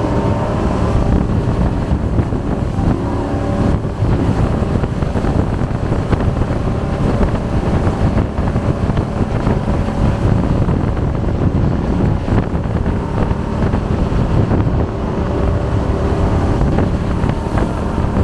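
Jet boat engine running steadily at speed, with wind buffeting the microphone.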